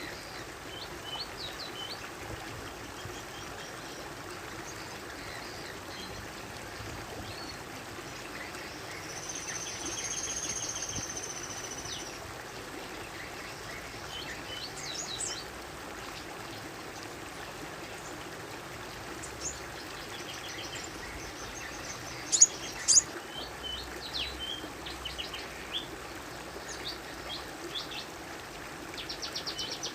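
Small songbirds chirping and calling over a steady background hiss. A longer high trilling call comes about a third of the way in, two loud sharp chips follow about two-thirds in, and a quick trill comes at the very end.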